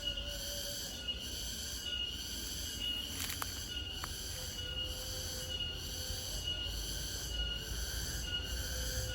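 Field crickets chirping in a steady outdoor chorus, a high-pitched trill that pulses at an even beat of about once a second, over a low rumble.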